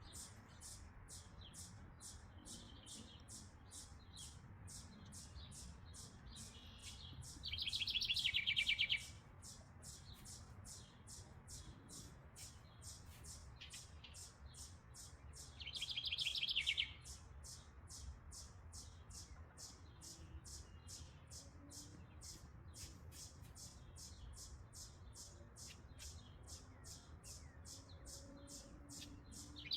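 House wren singing twice, a loud rapid bubbling trill of about a second and a half that drops in pitch at its end, about eight seconds in and again about sixteen seconds in. Behind it runs a steady high ticking of short chips, about three a second.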